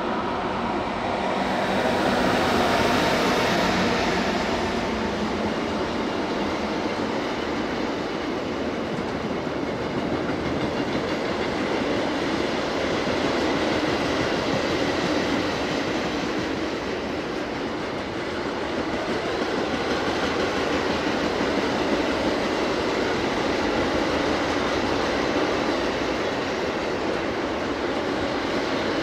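Train running along the Semmering mountain railway, a steady noise of wheels on rail, briefly brighter and louder about two to four seconds in.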